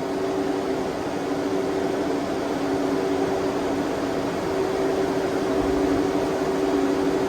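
Ford 351 Windsor V8 running at a steady idle with its electric cooling fans on: an even mechanical hum with two held tones.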